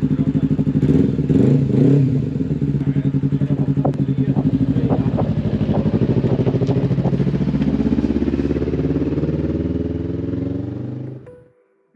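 Truck engine running steadily with an even pulsing, cutting off abruptly near the end.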